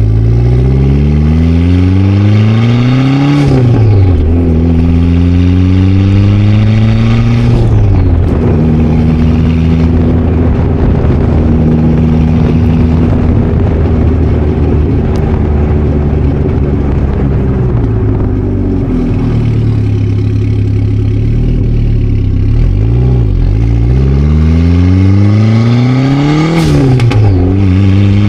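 Car with a swapped-in Dodge SRT-4 turbocharged 2.4-litre four-cylinder engine accelerating through the gears. The engine pitch climbs and drops at shifts about three and a half and eight seconds in, then holds steady while cruising. Around twenty seconds it slows with a falling pitch, then pulls up again, with another shift near the end. It is heard from outside the car's flank.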